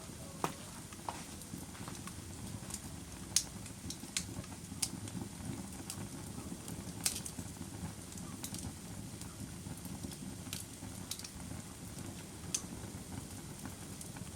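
Wood fire crackling: a steady low rustle of flame with irregular sharp pops, a few of them much louder than the rest.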